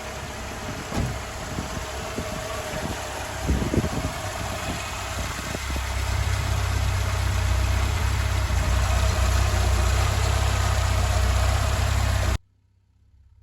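Ford 1.4 CVH four-cylinder petrol engine idling, uneven with a few brief surges at first, then settling to a steadier, slightly louder idle about halfway through. The sound cuts off suddenly near the end.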